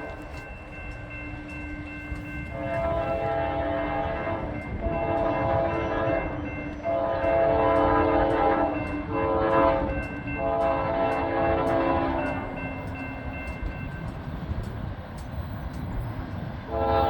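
Locomotive air horn sounding a chord of several tones in a series of long blasts with short breaks, over the rumble of a passing train, then fading away.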